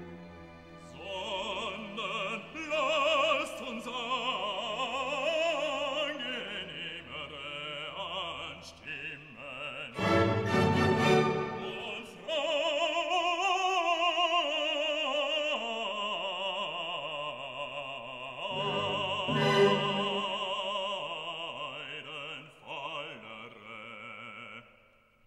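Operatic singing in classical music: a voice holding long notes with strong vibrato over instrumental accompaniment.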